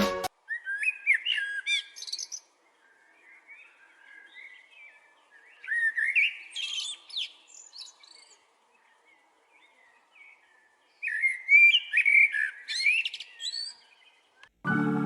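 A songbird singing: three loud phrases of quick rising and falling whistled notes, about five seconds apart, with softer twittering between them. Music cuts back in just before the end.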